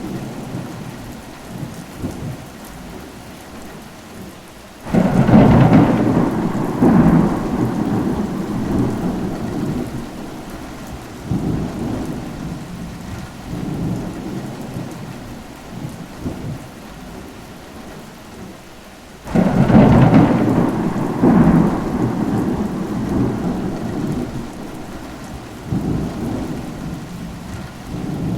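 Steady rain with thunder: two loud peals, one about five seconds in and another about fourteen seconds later, each starting suddenly and rumbling away over several seconds, with smaller rolls of thunder between them.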